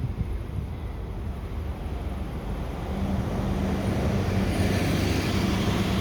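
Road traffic: a motor vehicle's engine running, growing louder over the second half as it approaches along the street.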